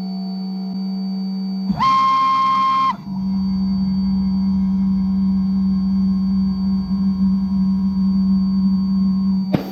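Motor of a CNC-converted Harbor Freight mini mill running with a steady low whine. A higher-pitched whine joins it about two seconds in and lasts about a second.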